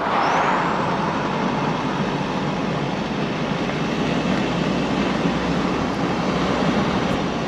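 Steady rushing road and wind noise of a vehicle driving along, starting abruptly.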